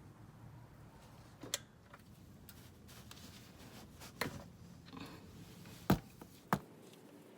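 A few separate light clicks and knocks of small tools or parts being handled, the sharpest two close together near the end.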